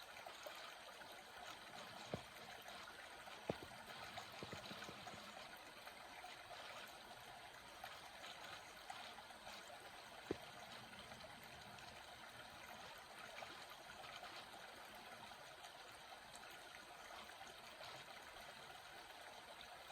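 Faint, steady trickle and gurgle of a small water stream, with a few short sharp clicks about 2, 3.5 and 10 seconds in.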